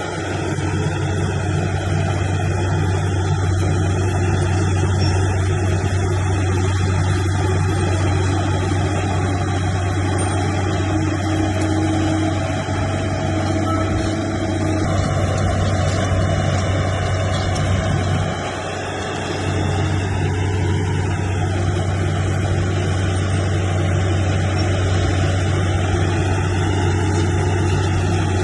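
Bulldozer's diesel engine running steadily with a strong low hum, easing off briefly about two-thirds of the way through before picking up again.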